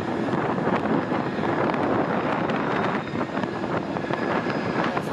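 Steady engine noise with wind on the microphone.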